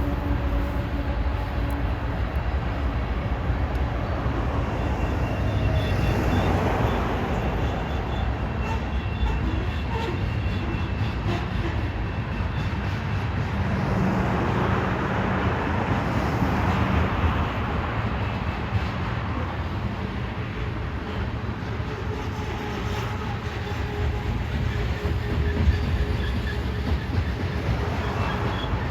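Freight train rolling past, a steady rumble of wheels and cars on the rails.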